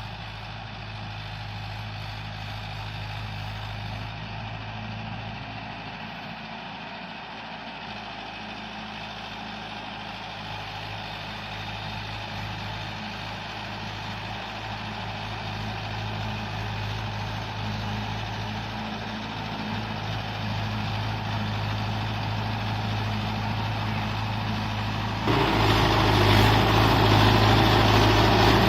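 Mahindra Yuvo Tech 575 DI tractor's diesel engine running steadily, slowly getting louder, then louder all at once near the end.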